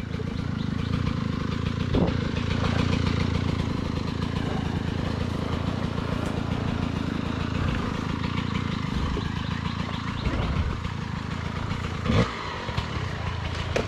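Dirt bike engine running at low revs on a slippery trail, with a knock about two seconds in and another near the end.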